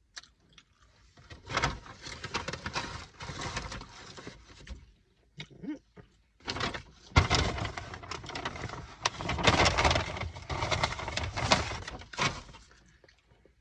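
Close-up crinkling and crunching from a takeout meal being handled and eaten: two stretches of dense crackling with a short pause between them.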